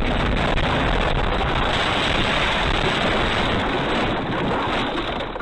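Steady rushing road and wind noise of a moving car, as picked up by a dashcam microphone.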